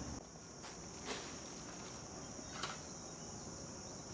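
Steady high-pitched chorus of insects trilling, with two short clicks, about a second in and again past two and a half seconds.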